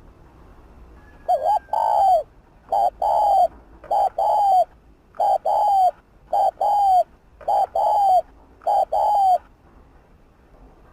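Spotted dove cooing: seven repeated coo phrases about 1.2 seconds apart, each a short note followed by a longer falling one. The cooing begins about a second in and stops a second or so before the end.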